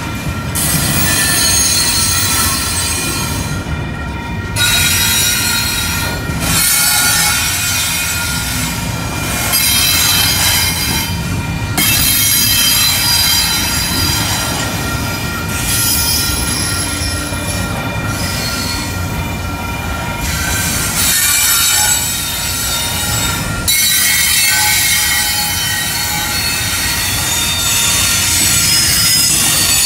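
Double-stack intermodal freight cars rolling past close by: a continuous rumble of wheels on rail, with steady high-pitched wheel squeal over it. The noise dips briefly every few seconds.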